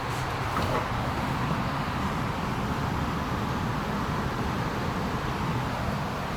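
Steady low hum and hiss of an O-Train Confederation Line light-rail train (Alstom Citadis Spirit) standing at a station with its doors open, with a few faint knocks in the first second.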